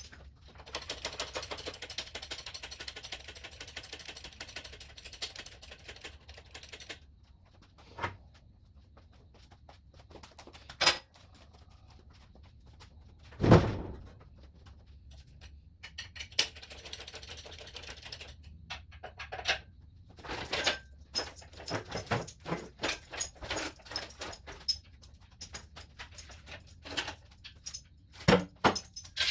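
Workshop handling noises of metal parts and tools: a few seconds of rough rolling or scraping, single knocks with one loud bang about halfway through, then a long run of irregular clicks and clanks.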